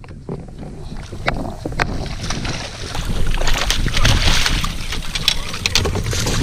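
Wind buffeting the microphone in a steady low rumble, with scattered sharp clicks and a hissing, splashy noise that swells in the second half.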